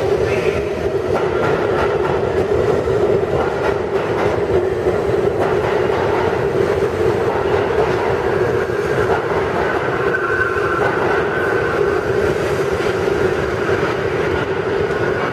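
New York City Subway R32 train running on the track, a steady loud rumble of wheels and cars with a faint whine above it.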